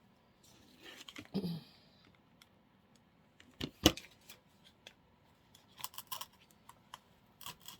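Scattered small clicks and light rustling of artificial flower stems being handled and pushed into a floral arrangement, with one sharp click just before the middle and a quick run of clicks about six seconds in.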